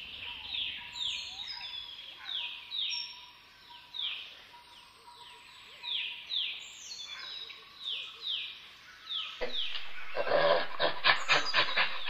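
A bird calling over and over: short calls that each slide downward in pitch, about one every half second. Near the end, louder and rougher irregular sounds take over.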